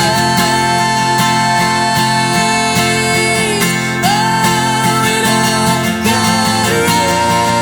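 Live acoustic worship music: a strummed acoustic guitar under long held notes, with no lyrics sung.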